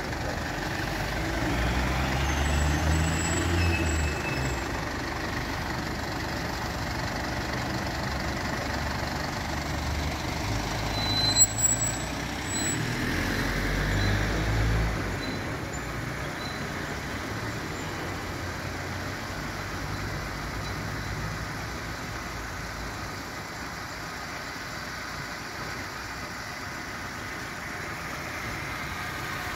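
Car engines running at low speed as vehicles stop and move off, the rumble heavier in the first half and easing after about fifteen seconds. A single sharp knock about eleven seconds in.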